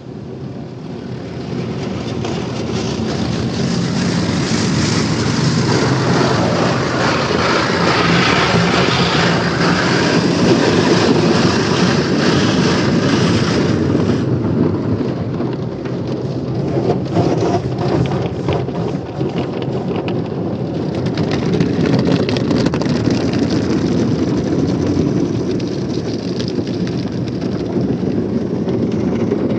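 Automatic car wash: water spraying and pouring onto a car in a steady, loud rush. It builds over the first few seconds, eases about halfway through and builds again a few seconds later.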